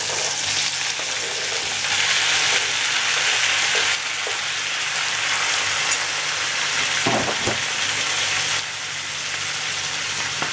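Chopped tomatoes sizzling as they fry in hot oil in a kadhai, being stirred with a steel spoon. The sizzle swells about two seconds in, then settles to a steady hiss and eases off near the end.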